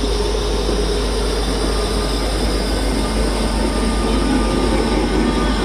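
Royal Mail Class 325 electric multiple unit moving out along the goods line, a steady running noise of wheels and traction equipment with a faint hum.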